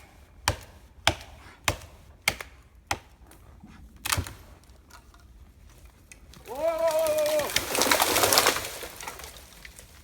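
A small pine being felled: a run of sharp cracks about every half second, then a drawn-out pitched creak about six and a half seconds in, and a loud rushing crash of breaking branches as the tree comes down.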